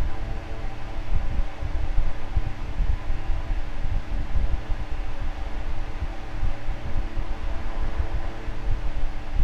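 Electric fan running steadily: a continuous rushing noise, heaviest in the low end, with a steady hum.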